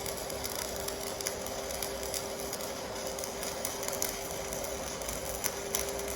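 Electric welding arc from an AC/DC TIG welder burning steadily: a constant hum with a fixed tone and irregular crackles.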